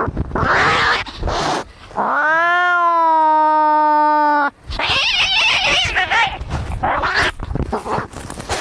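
Angry cats fighting: harsh, noisy hisses and screeches, broken about two seconds in by one long yowl that rises in pitch and then holds steady for over two seconds, followed by more rough screeching.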